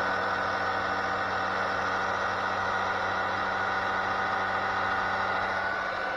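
VAX vacuum cleaner running steadily with its brush-bar hood fitted, the motor giving a high steady whine over a low hum. The brush drive has just been freed by cleaning out built-up hair and fluff and lubricating its bearing.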